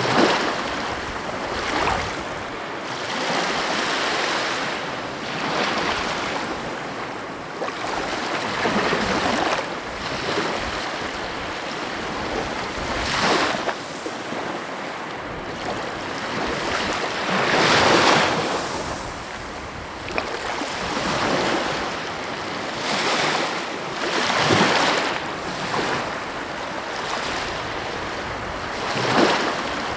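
Sea waves breaking and washing on a shore: a steady wash of surf that swells every few seconds, with sharper breaks, the loudest about eighteen seconds in.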